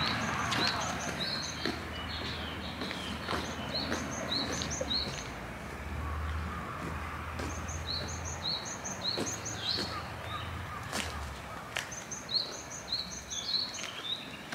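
Small wild birds chirping in quick phrases of short high notes, each phrase lasting a few seconds with pauses between, over a steady outdoor background noise and a few faint sharp clicks.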